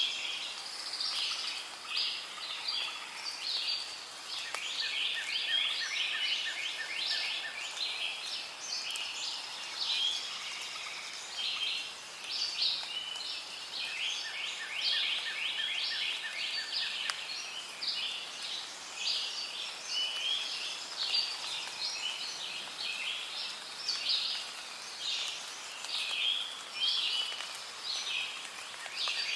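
Rainforest ambience: a dense, continuous chorus of high chirping calls from birds and insects. Twice a lower, rapidly pulsing trill joins in for a few seconds.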